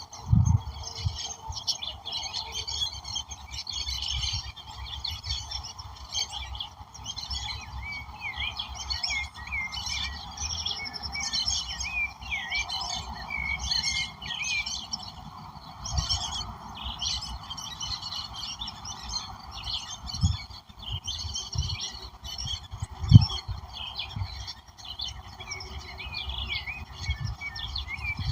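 A dense chorus of many songbirds chirping and singing at once, with short whistled phrases overlapping throughout. A few short low thumps break in, the loudest about 23 seconds in.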